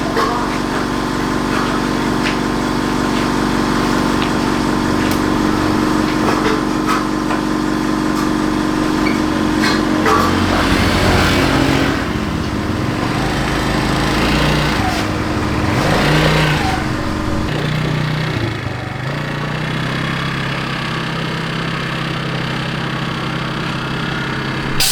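Attila scooter's small engine running after the repair of its no-start fault, idling steadily. Its note steps up and down through the middle as the throttle is worked, then settles back to a steady idle.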